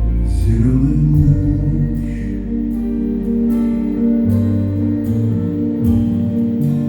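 Live band playing an instrumental passage: held chords over a moving bass line, with a sharp percussive hit about once a second.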